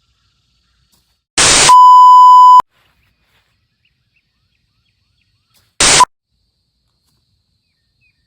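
Edited-in sound effects over otherwise silent audio: a short burst of static leads straight into a loud, steady censor-style beep lasting about a second, and about four seconds later a second brief burst of static ends in a short beep.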